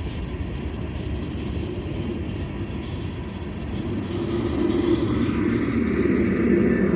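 Freight train rolling past, a steady rumble of cars on the rails that grows louder about four seconds in as a steady hum comes in near the end.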